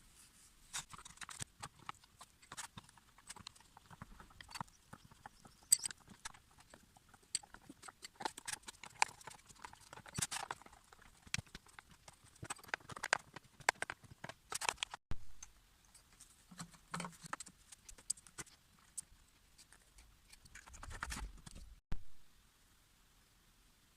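Irregular clicks and knocks of hand tools and small parts being handled during work on a power cutter, with a short lull partway through and a busier run of knocking near the end before it stops.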